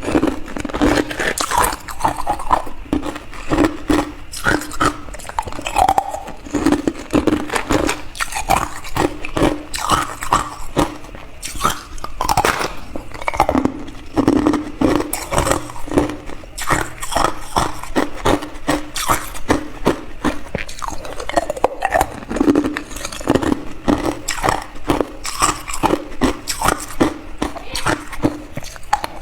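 Hard clear ice being bitten and chewed: a dense, unbroken run of sharp cracks and crunches.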